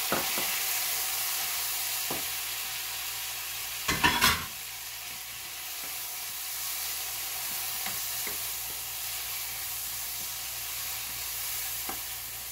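Chopped tomatoes sizzling in hot oil in a non-stick wok while a spatula stirs them, with faint scrapes and taps. About four seconds in comes a short burst of louder knocks of the spatula against the pan.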